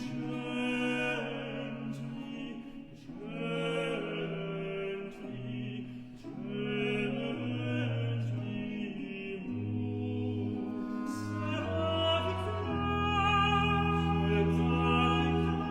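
Slow Baroque chamber music from a duet movement for countertenor and tenor: held melody notes in the upper parts over a bass line that steps to a new note every second or two.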